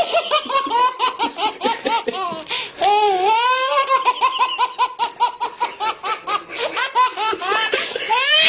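A baby laughing hard in a rapid string of short bursts, about four or five a second, with one longer drawn-out squeal about three seconds in.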